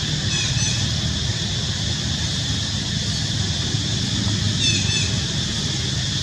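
Steady outdoor background: a low rumble under a constant high hiss, with two brief high-pitched chirping calls, one about half a second in and another near five seconds in.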